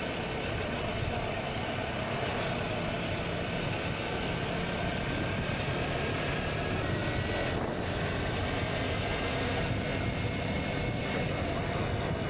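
KTM Duke 125's single-cylinder engine running steadily under way through an Akrapovic exhaust, mixed with steady wind and road noise.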